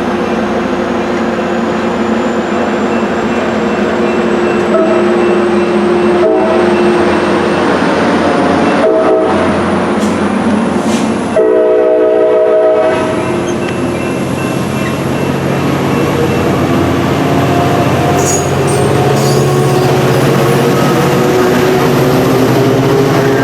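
A train running past with continuous rail rumble, its air horn sounding one chord for about a second and a half midway through.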